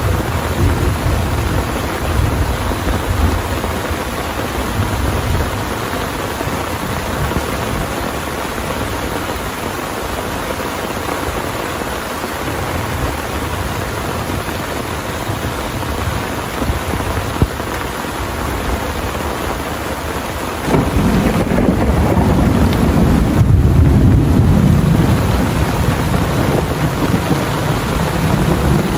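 Heavy rain pouring steadily, with thunder rumbling low at the start and a louder roll of thunder breaking in suddenly about two-thirds of the way through and rumbling on for several seconds.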